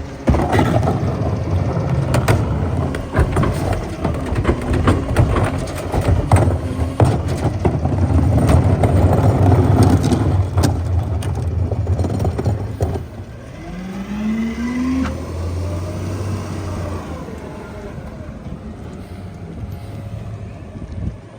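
Heil PowerTrak rear-loader garbage truck packing heavy trash: cracking, snapping and crunching over the steady drone of the truck's engine and hydraulics for about thirteen seconds. The crushing then stops, a short rising whine follows, and a lower, quieter hum carries on to the end.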